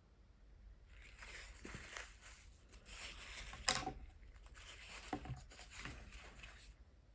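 Scratchy rustling and handling of art supplies on a desk, with one sharp click a little past halfway and a few lighter knocks.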